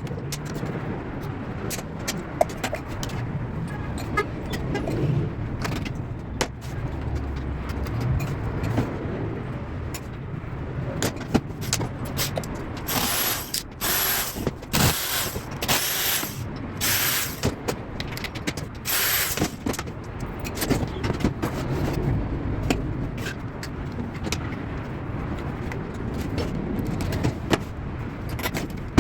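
Scattered clicks and knocks of work on a Stihl MS230 chainsaw, over a steady low rumble. About halfway through there is a run of about six short, loud hissing bursts, each about a second long.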